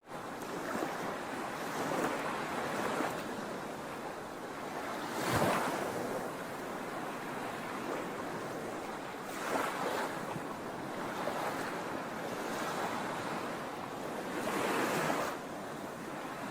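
Sea waves washing onto a shore, a steady surf hiss with several waves surging and breaking, the loudest about five seconds in.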